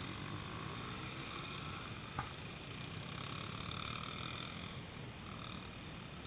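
Small pit bike engine running, a steady buzzing drone whose higher tones swell and fade, with one sharp click about two seconds in.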